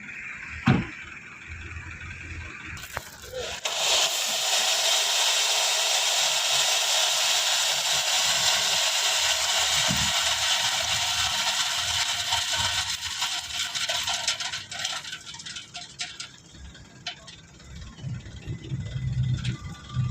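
Crushed split stone pouring off the tipped bed of a Mitsubishi Canter dump truck: a steady rush of sliding gravel with many small clicks and rattles that thins out to scattered stones near the end. A single knock comes just under a second in.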